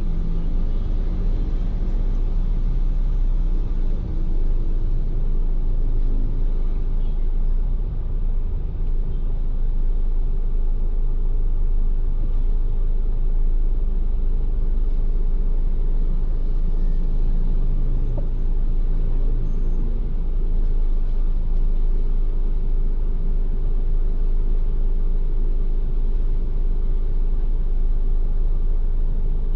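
Ford Everest SUV on the move: a steady low rumble of engine and road noise with no sudden events.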